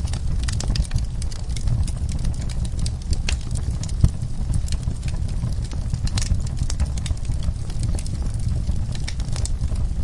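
Wood fire crackling in a fireplace: frequent sharp crackles and pops over a steady low rumble, with one louder pop about four seconds in.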